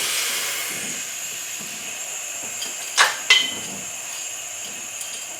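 A steady hiss that slowly fades, broken by two sharp clicks a third of a second apart about three seconds in.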